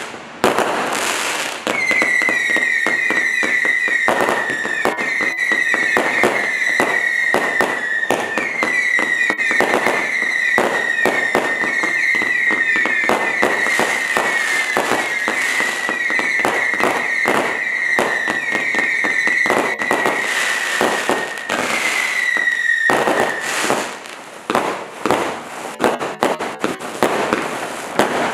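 Black Cat Fast and Furious 210-shot compound firework cake firing: a dense run of rapid launches and crackling bursts under a continuous high screaming whistle that dips in pitch over and over. About 23 seconds in, the whistling stops and irregular separate bangs and crackles follow.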